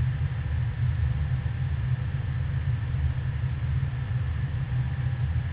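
Steady low rumble of an Airbus A320 in motion, with faint steady tones above it and no change in pitch or level.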